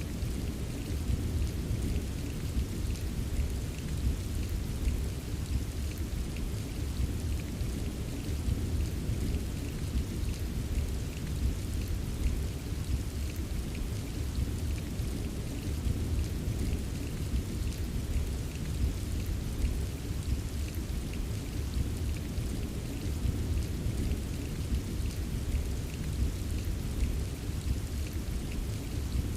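Steady rain ambience: an even wash of rain with a deep continuous rumble underneath and fine scattered drop ticks on top.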